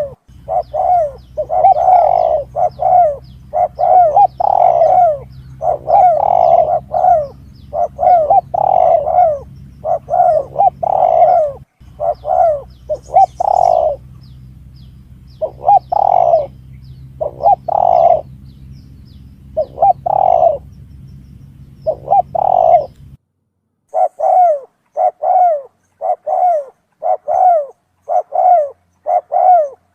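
Spotted dove (tekukur) cooing over and over in quick series of notes with short pauses, a lure call for the species. A steady low hum lies under the calls and cuts off suddenly about 23 seconds in.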